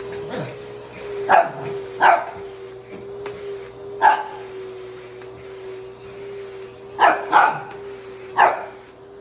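Small dog barking six times in irregular short volleys at a vacuum cleaner, whose motor hums steadily underneath.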